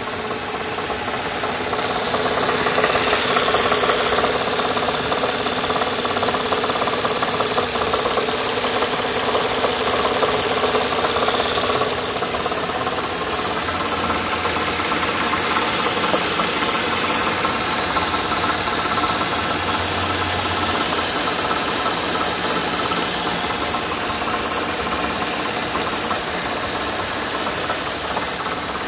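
2002 Nissan Maxima V6 idling with a steady knocking rattle. The rattle comes from loose pieces of broken honeycomb in the bank 1 pre-catalytic converter, the one nearest the firewall, which has failed.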